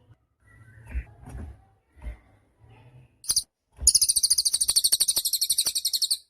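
Cililin songbird gives one short, very high note, then a loud, rapid, very high trill of about fifteen notes a second that lasts a little over two seconds and stops abruptly. Soft low thumps and faint chirps come before it.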